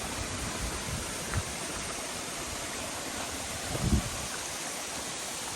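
Shengjergj Waterfall's falling water rushing steadily, with a brief low thump about four seconds in.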